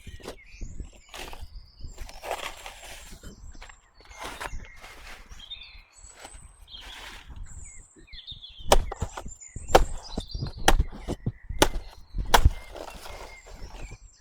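Rustling and crunching of movement through dry vegetation, then five sharp chopping blows about a second apart in the second half, the loudest sounds here. Birds chirp throughout.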